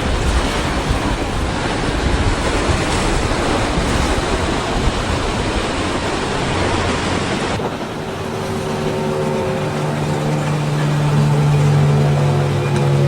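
Wind buffeting the microphone over the wash of surf. About two-thirds of the way through it cuts to a powerboat's engines droning steadily, growing louder near the end.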